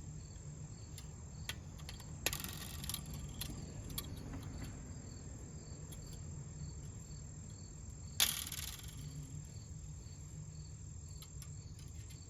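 Crickets chirping steadily, with two brief scraping noises about two seconds in and again about eight seconds in as the bent tines of a metal rake are handled and straightened.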